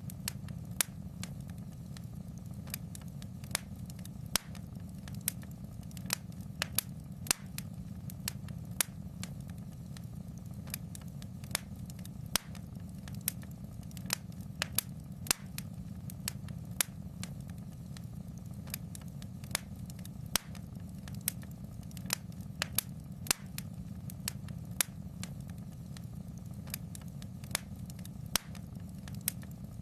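Wood fire in a fireplace crackling: irregular sharp snaps and pops, one to three a second, over a steady low rumble.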